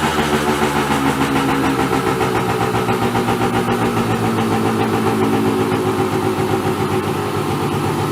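Kawasaki KE100's single-cylinder two-stroke engine idling steadily, warm and running without choke, after its carburettor air-fuel mixture screw was set about 2.5 turns out.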